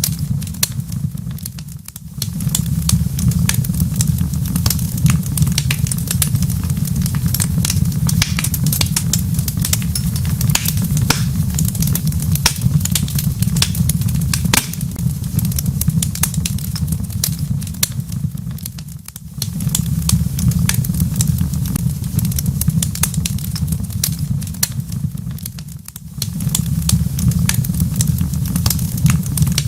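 Wood fire in a fireplace crackling with frequent sharp pops over a steady low rumble. The rumble dips briefly three times.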